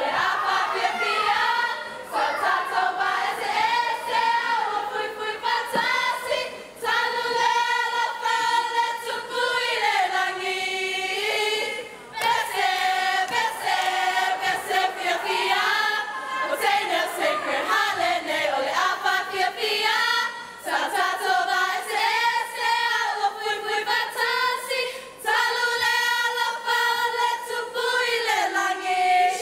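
A choir of a Pacific Island performing group singing together in harmony, in long held phrases with short breaks between them.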